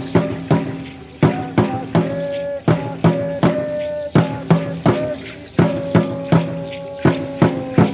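Danza azteca music: a drum beating a steady, driving pattern of about three strikes a second, with a held, pitched melodic line over it.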